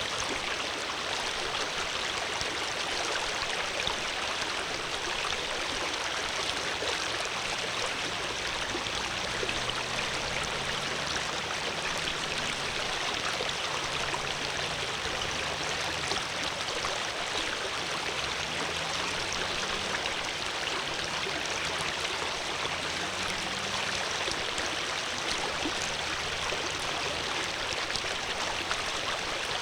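Flowing water, a stream's steady continuous rush.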